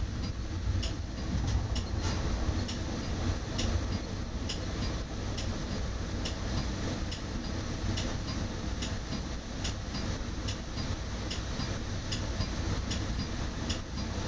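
Metra bilevel commuter train running, heard from inside the cab car: a steady low rumble with a regular light clicking about twice a second.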